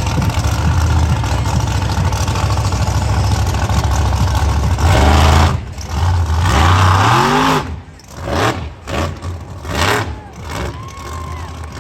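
Monster truck engine running loud and heavy, then revved up twice in rising sweeps about halfway through. The engine note drops away sharply a couple of seconds later, leaving quieter, uneven engine and arena noise.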